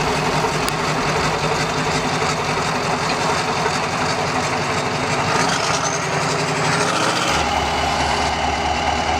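Steyr trial truck's diesel engine running hard, revving up with a rising pitch about five to seven seconds in. The sound changes abruptly just past seven seconds to a steadier, deeper engine note.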